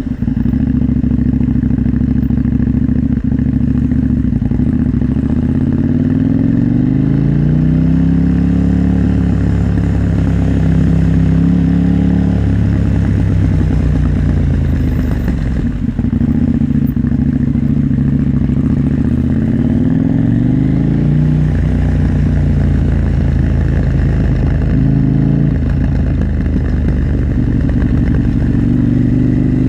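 KTM 890 Duke R parallel-twin motorcycle engine under way, revs climbing, easing off with a brief dip about halfway through, then climbing again and holding steady.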